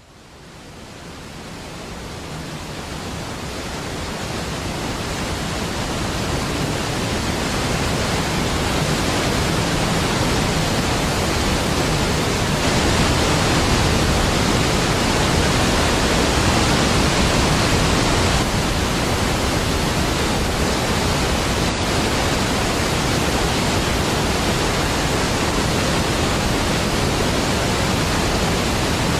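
Deep, steady rush of a large waterfall, fading in over the first several seconds and then holding constant.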